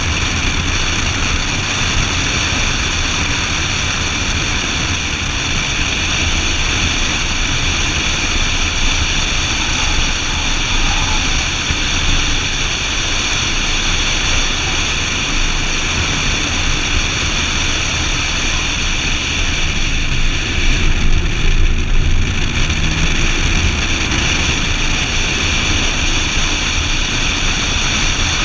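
BMW Z4 M Roadster's 3.2-litre inline-six running hard at track speed, mixed with a steady rush of wind noise. About twenty seconds in the low rumble swells for a couple of seconds while the higher hiss drops away.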